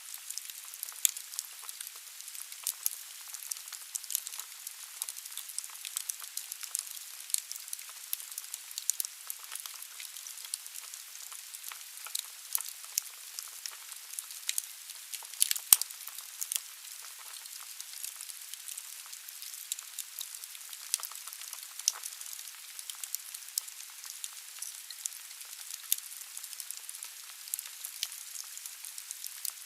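Wood fire burning in a fireplace: a steady hiss of flame with many sharp crackles and pops from the burning firewood, one louder pop about halfway through.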